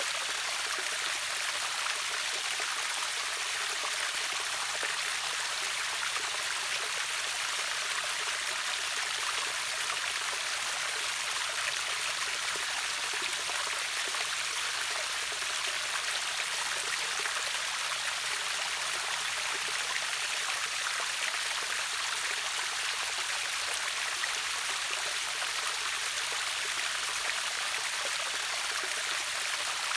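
Steady rushing of a river waterfall, an even hiss of falling and flowing water weighted to the high end.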